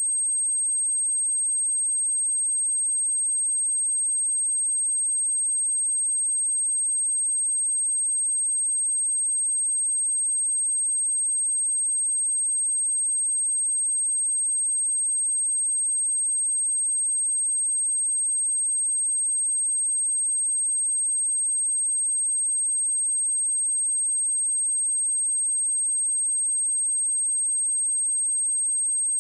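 A pure 8405 Hz sine-wave test tone, one steady high-pitched note at constant level, used to test speakers and to vibrate water and dust out of a speaker grille.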